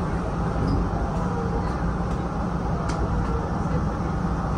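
Steady low rumble of a Hanshin Railway electric train running, with a few faint ticks.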